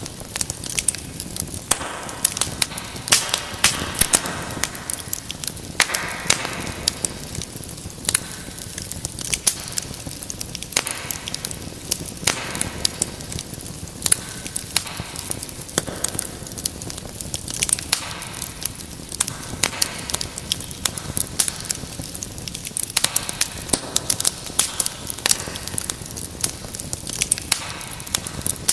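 Wood fire burning in a fireplace, crackling steadily with many irregular sharp pops and snaps over a soft hiss and low rumble of the flames.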